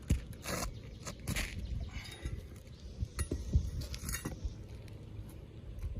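Brittle asphalt roof shingles being handled and torn, with short scrapes and rustles and a few small clicks and knocks.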